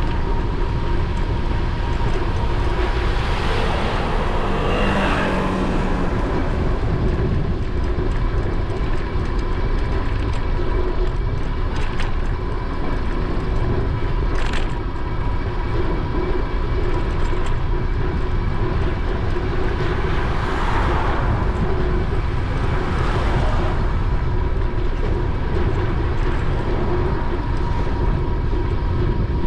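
Wind rushing over an action camera's microphone on a moving e-bike, a constant heavy rumble with a steady faint whine through it. Traffic swells past twice, a few seconds in and again about two-thirds through.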